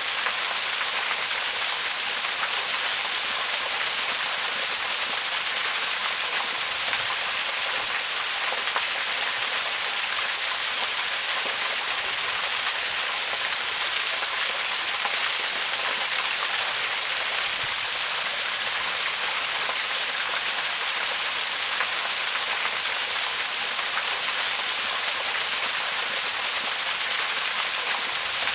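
Waterfall: a steady, even rush of falling water, mostly a high hiss with little low rumble.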